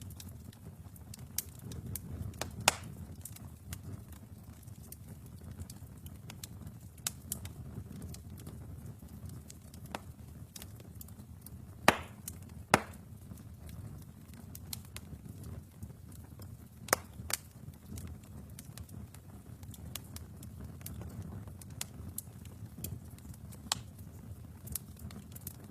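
Wood fire burning in a fireplace: a steady low rumble of flames with irregular crackles and sharp pops from the burning logs. Two louder pops come close together about halfway through.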